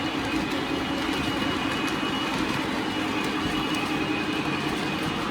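Lionel O-scale Kansas City Southern model diesel locomotive running along the track, its onboard sound system giving a steady diesel engine drone over the rumble of the train rolling.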